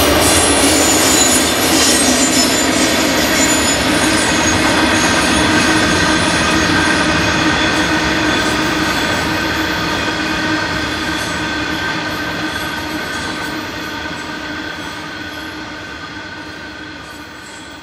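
A coal train of diesel locomotives and loaded wagons passing. The wheels squeal with steady high tones over a running rumble, and the sound fades away gradually toward the end.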